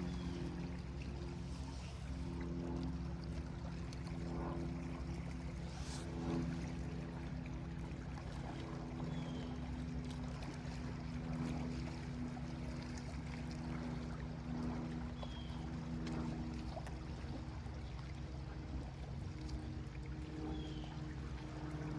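Small lake waves lapping and washing against the shore in a steady wash of water noise, with a low steady hum of several tones underneath.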